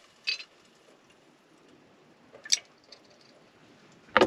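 A few brief clinks and taps of kitchen bottles and utensils while seasonings are measured and poured, with a louder clatter near the end.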